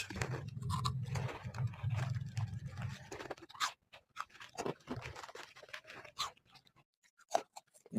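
People crunching and chewing crispy chilli-shaped Mirchi Lo snacks, with irregular crisp crunches that thin out over the last few seconds.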